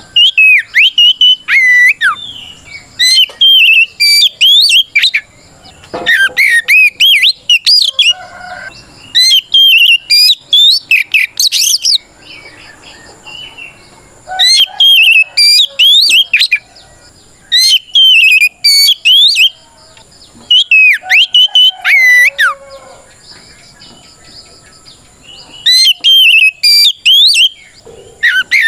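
Oriental magpie-robin (kacer) singing a loud, full-voiced fighting song (ngeplong) that calls out rivals. Its rapid, varied whistled phrases come in bursts of one to three seconds with short pauses between, about eight in all.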